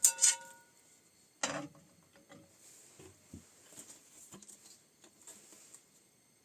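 Objects being handled: two sharp clinks near the start, each with a brief ringing, a louder knock about a second and a half in, then lighter tapping and rustling that stops shortly before the end.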